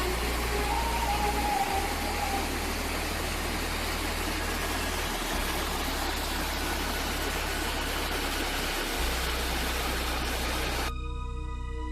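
Steady rushing of a waterfall, an even noise with no rhythm. It cuts off suddenly near the end as soft ambient music begins.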